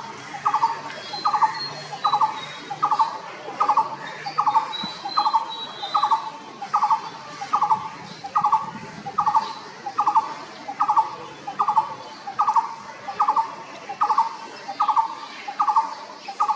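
Blue-throated barbet calling: a short, rapidly trilled note repeated steadily, about three times every two seconds. Fainter high, thin chirps are heard in the first half.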